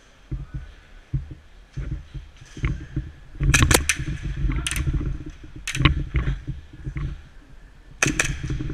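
Airsoft guns firing: sharp cracks, a quick string of three or four a third of the way in, single shots after it, and another quick pair near the end, over low rumbling from movement on the microphone.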